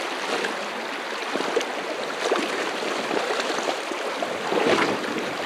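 River current running over a stony bed: a steady rush of water, with a few brief sharper sounds in it.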